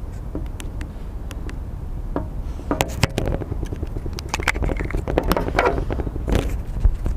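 Scattered sharp clicks, then a denser run of clicking and scraping from about three seconds in, over a steady low rumble.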